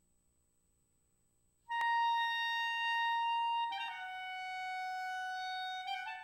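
Solo clarinet coming in about two seconds in with a sharply attacked, long-held high note, then stepping down to a lower held note, with a short higher note just before it stops.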